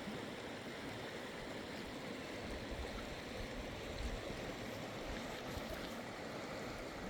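Steady rush of the river's current flowing past the bank.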